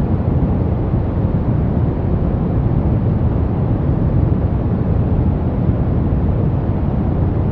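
Steady brown noise: a soft, even rumbling hiss weighted toward the low end, with no changes or events.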